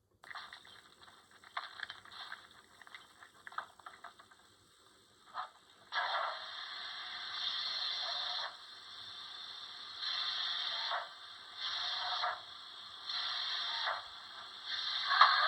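Sound system of an HO-scale Broadway Limited Paragon 3 K4s steam locomotive: scattered clicks and ticks, then several bursts of steam hiss that start and stop abruptly, and a whistle beginning to rise in pitch right at the end.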